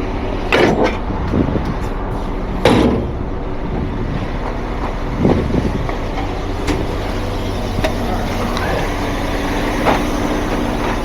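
Heavy truck engine idling steadily, with a few short metallic clanks and knocks over it, the loudest about three seconds in.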